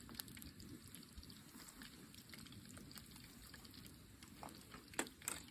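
Faint wood campfire crackling: a low hiss with a few scattered small pops.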